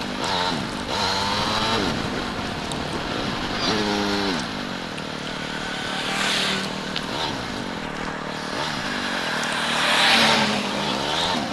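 Motorcycle engine running on the move, its pitch rising and falling several times as it revs and changes gear, over a steady rush of road and wind noise that swells twice.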